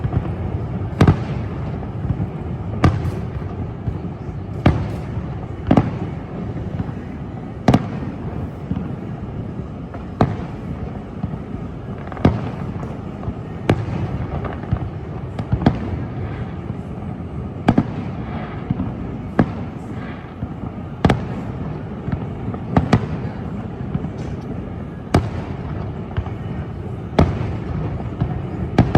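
Fireworks shells bursting in the sky, a sharp bang about every one and a half to two seconds over a steady low background rumble.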